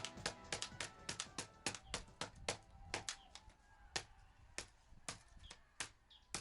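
Background music fading out about a second in, over a run of sharp, irregular taps that come a few times a second and grow sparser.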